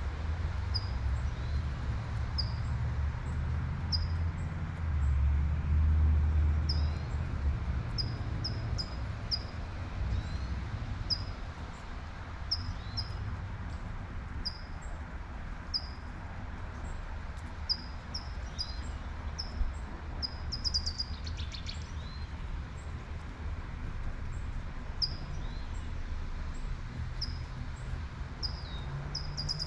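A songbird chirping over and over in short, high notes, with a few falling calls, over the steady hiss of light rain. Underneath runs a low traffic rumble that swells about five seconds in, like a car passing, then eases.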